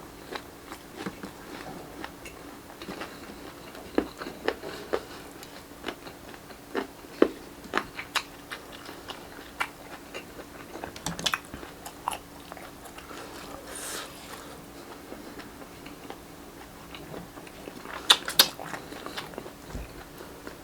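Close-miked eating: irregular biting, chewing and crunching on grilled street-food barbecue, with wet mouth clicks and a few louder crunches near the end, over a faint steady hum.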